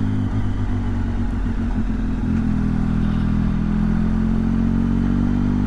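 Motorcycle engine running at a steady pace while the bike is ridden, its note a little uneven for the first couple of seconds and then even.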